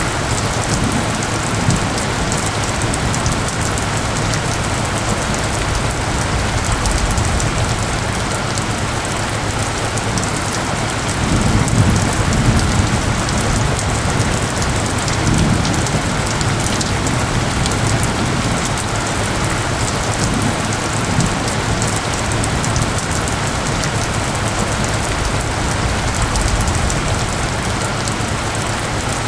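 Steady rain falling in a dense, even patter, with a low rumble swelling about twelve seconds in and again a few seconds later.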